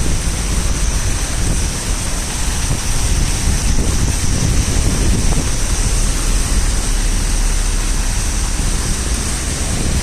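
Steady rushing of wind and heavy rain, with wind rumbling on the microphone.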